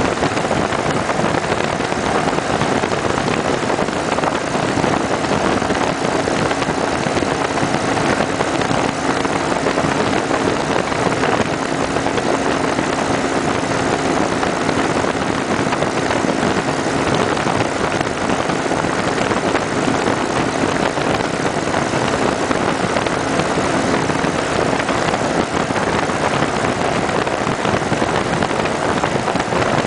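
Kawasaki Vulcan 900 Custom motorcycle's V-twin engine running at a steady cruising speed, a low hum under loud, steady wind rush.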